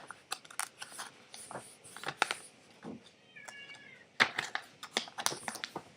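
A sheet of paper being folded and creased by hand: irregular crinkles, rustles and sharp ticks, loudest in two spells past the middle. About three and a half seconds in, a brief high wavering cry, like a cat's meow, sounds once.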